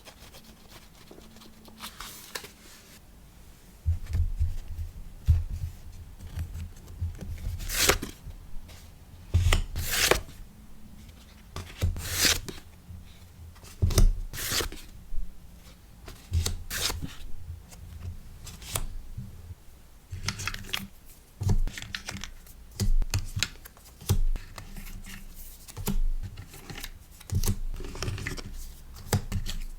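Packaging being handled close to the microphone while a sticker order is packed: a run of short, sharp rustles, tears or snips and soft thumps on the desk, starting about four seconds in after a quiet stretch.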